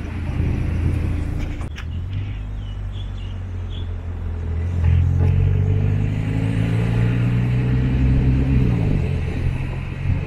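MINI Cooper engine running at low revs close by as a car is moved slowly into line. It grows louder about five seconds in, holds a steady note, then its pitch dips and it fades near the end.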